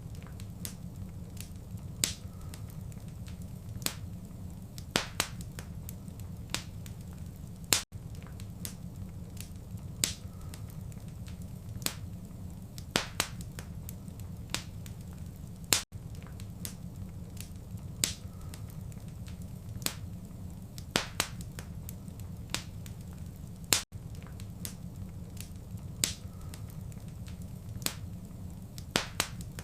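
Wood fire in a fireplace crackling: a steady low rumble of flame with irregular sharp pops and snaps, some in quick pairs. The sound briefly cuts out about every eight seconds, where the same stretch of fire sound starts again.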